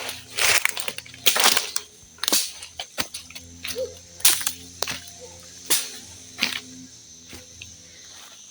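Brush and branches being chopped and snapped during land clearing: about seven sharp, irregular strokes, some longer and rougher like cutting through tangled growth.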